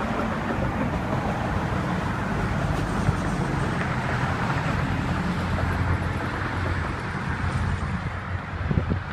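A 2013 Lexus RX 350 running: a steady low hum under a broad rushing noise, with a few short knocks near the end.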